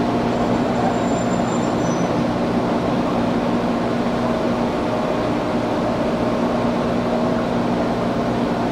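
Cabin sound of an Izuhakone Railway 1300 series electric train under way: a steady rumble of wheels and running gear with a faint whine, and the air conditioning running strongly.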